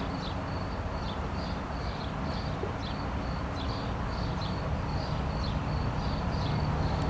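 A small bird calling with a short high chirp about twice a second, over a steady low outdoor rumble.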